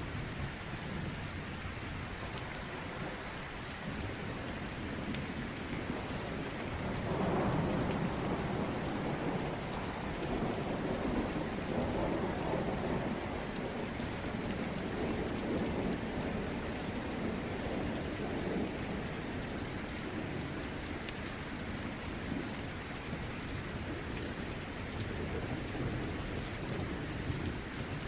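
Steady rain, with a long low roll of thunder that swells about seven seconds in and slowly fades over the next dozen seconds. Faint sharp crackles from a wood fire are scattered through it.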